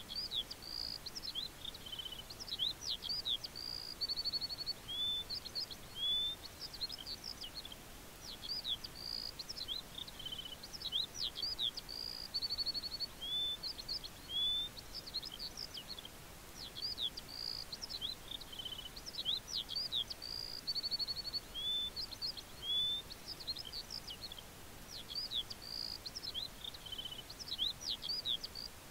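Birds chirping: a continuous run of short, high chirps, quick sweeps and brief rapid trills over a faint hiss.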